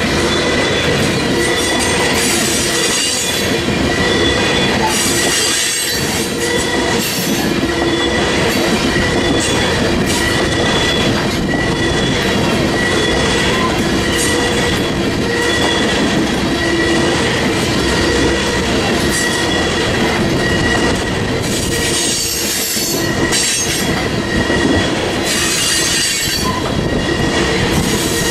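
A freight train of tank cars rolling past close by: steady wheel-on-rail rumble with a high ringing squeal from the wheels, and brighter bursts of squeal coming and going.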